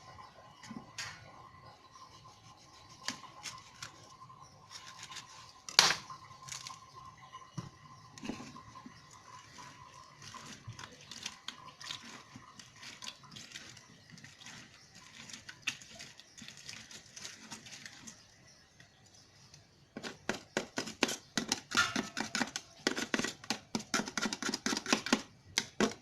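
Lemon halves being squeezed for juice: scattered small clicks and handling noises, then a few seconds of rapid, louder scraping strokes near the end.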